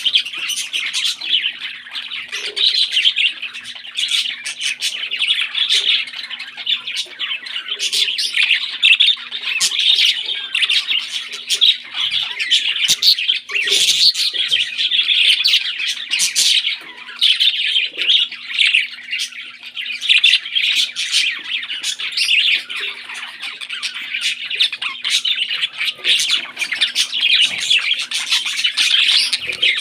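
Parrots chirping and squawking in a dense, unbroken stream of high calls, with a faint steady low hum underneath.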